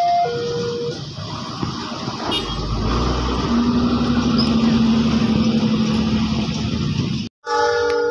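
A passenger train running past with a steady heavy rumble, a low steady drone joining about three and a half seconds in. At the start a two-tone high-low alarm alternates and stops about a second in; near the end the sound cuts off abruptly and alarm tones briefly start again.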